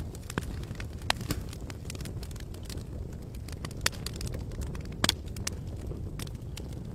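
Campfire burning: wood crackling and popping in sharp irregular snaps over a steady low rumble, with the loudest pops about a second in and about five seconds in.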